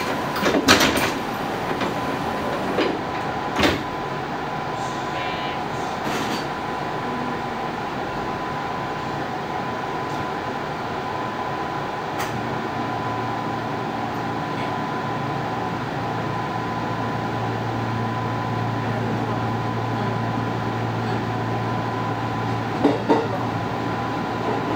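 Electric commuter train running, heard from inside the front car behind the driver's cab: a steady rumble and hiss with a thin steady tone, a few sharp knocks in the first four seconds, and a low steady hum that comes in about halfway.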